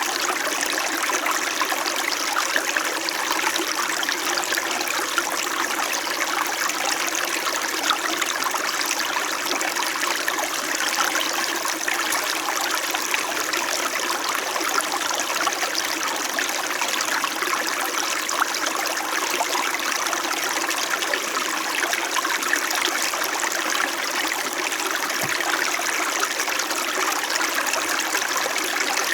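Small winter mountain stream flowing and babbling steadily over stones.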